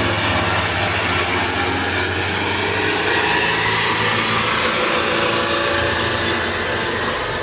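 Heavy truck engine running steadily, with a thin high whine over it that stops about three seconds in.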